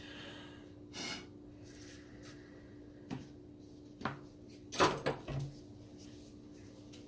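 Short puffs of breath blown through a drinking straw onto wet acrylic paint, with a few small knocks, the loudest puffs coming in a pair about five seconds in, over a steady low hum.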